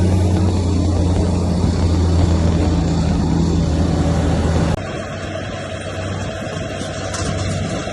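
Bulldozer's heavy diesel engine running steadily under load. About two-thirds of the way in it cuts off abruptly into a quieter, rougher machine noise.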